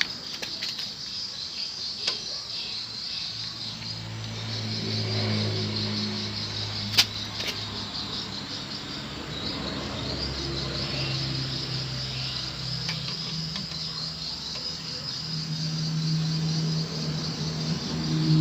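Crickets chirping steadily in the background, under a low hum that swells and fades; a single sharp click about seven seconds in.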